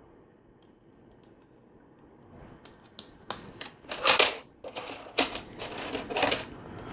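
Plastic LEGO pieces clicking and rattling as they are handled and fitted together: quiet at first, then a run of sharp clicks from about three seconds in, loudest about four seconds in.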